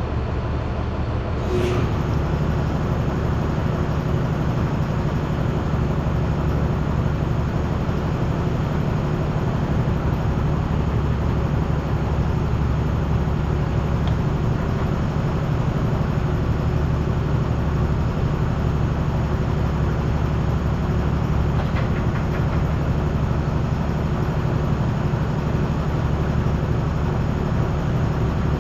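A steady machine drone, low-pitched with a constant hum, gets a little louder with a click about a second and a half in and then runs on evenly.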